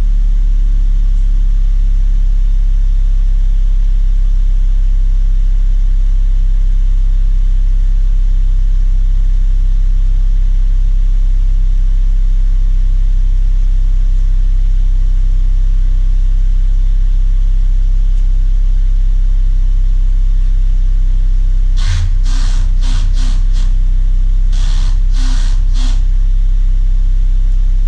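MKV Volkswagen Rabbit's 2.5-litre five-cylinder engine idling steadily on its first start after a rebuild, running smoothly. Near the end a quick series of about six short sharp clatters or knocks sounds over the idle.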